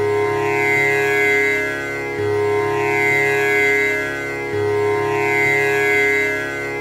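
Tanpura drone: its strings are plucked in a repeating cycle, the low string starting a new round about every two and a quarter seconds, three times, each round ringing on with many steady overtones shimmering above it.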